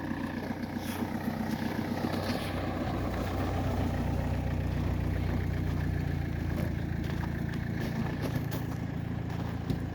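Vauxhall Vectra C 1.9 diesel engine idling steadily, a little louder in the middle of the stretch, with a few faint clicks near the end.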